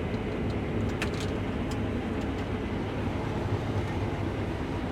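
Case IH Axial-Flow combine running steadily while harvesting wheat, a constant low drone heard from the cab, with a few faint clicks about a second in.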